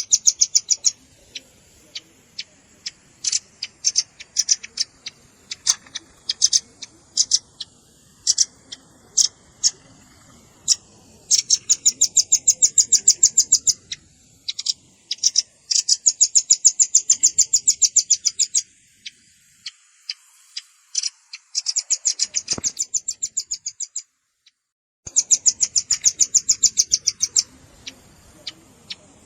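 Velvet-fronted nuthatch calling: sharp, high chip notes, some single and some in fast rattling trills of two to three seconds each. The calls drop out for about a second near the end.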